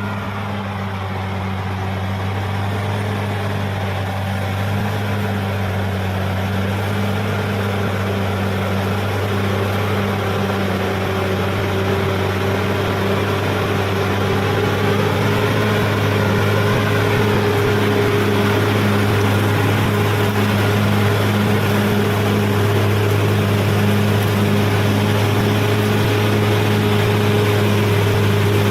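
Bulldozer's diesel engine running steadily, growing gradually louder, with a higher steady whine joining about a third of the way in.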